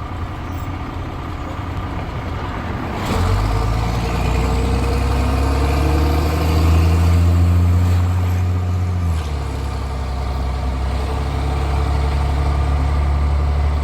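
Straight-piped Cummins C8.3 diesel in a school bus, loud and throaty. About three seconds in the engine comes onto the throttle and its note climbs for several seconds. About nine seconds in the pitch drops suddenly and then holds steady.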